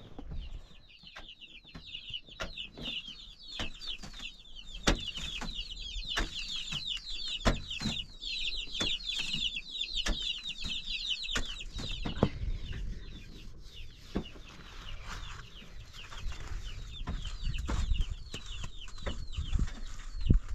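A dense chorus of many short, quick bird chirps that thins out about twelve seconds in, with scattered sharp knocks throughout.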